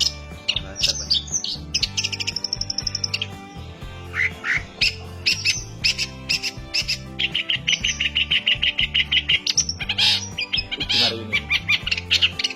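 Long-tailed shrike singing: harsh, sharp chattering notes broken by two long, rapid rolling trills, one about two seconds in and a longer one from about seven seconds in.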